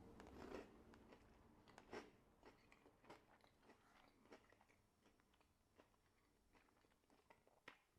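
Faint chewing of a mouthful of chicken casserole with crunchy croutons, a few soft crunches over near silence.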